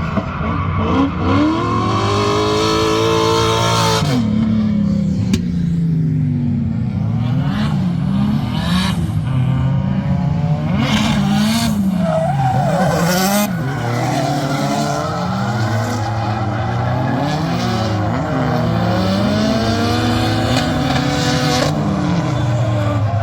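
Drift car engine revving up and down over and over as it is driven, with its pitch rising and falling every second or two, and hissing tyre noise coming and going.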